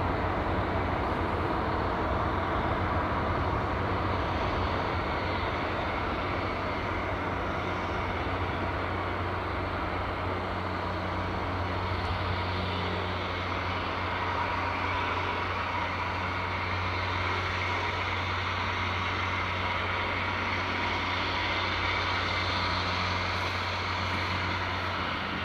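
Steady hum and rumble of an ICE 1 high-speed train running on electrified track, even in level with no sudden noises.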